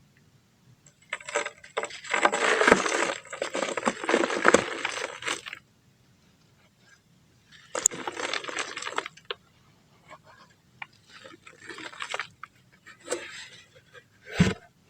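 Chunks of dried brown dirt crunching and crumbling in bursts of gritty crackling: a long burst in the first half, a shorter one past the middle, a few small crumbles, and a sharp crack near the end.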